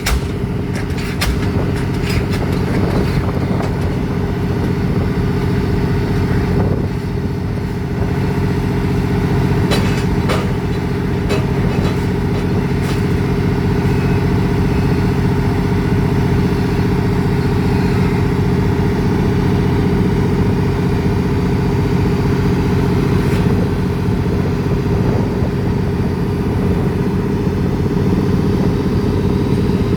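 Heavy diesel engine of a pile-driving rig running steadily, with a few scattered clanks and knocks.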